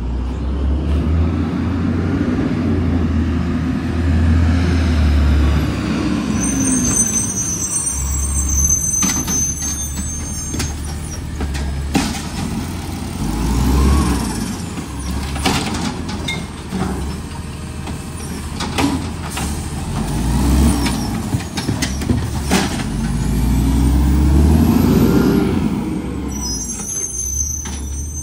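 Garbage truck's diesel engine revving up and falling back several times, with high squeals around a quarter of the way in and near the end, and scattered clanks.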